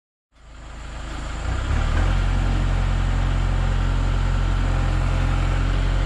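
Sawmill's gasoline engine running, its speed and loudness rising over about a second and a half after it comes in, then holding a steady run.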